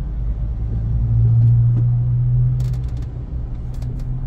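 A car's engine and road rumble: a low steady hum that swells a little about a second in, with a few faint clicks near the end.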